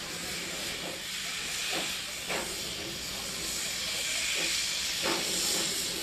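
Steady hiss of escaping steam from a Darjeeling Himalayan Railway toy train locomotive, growing a little louder toward the end, with a couple of faint knocks.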